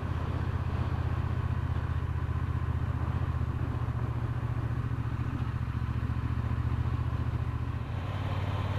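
Triumph Bonneville T120's parallel-twin engine running steadily while the motorcycle is ridden along, with a brief dip in the note near the end.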